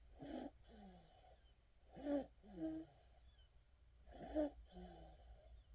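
A sleeping baby's wheezy, snoring breaths: three breath cycles about two seconds apart, each a rasping breath followed by a short squeaky sound that falls in pitch.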